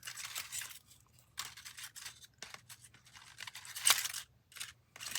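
Dry seed pods and plant bits rustling and crackling as they are picked up and handled, in short irregular bursts, with one sharper click about four seconds in.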